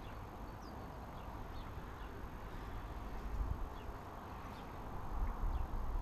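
Faint, short bird chirps scattered over a steady low rumble.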